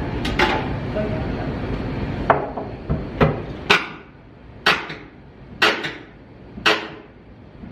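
A series of sharp hammer blows, roughly one a second, knocking at the nailed plank wall boards. A steady low rumble sits under the first few seconds and fades out about four seconds in.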